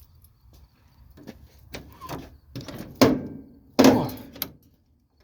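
Cab door of a Ford F600 dump truck being worked open: a series of metal clunks and rattles from the handle and latch, growing louder, the two heaviest about three and four seconds in.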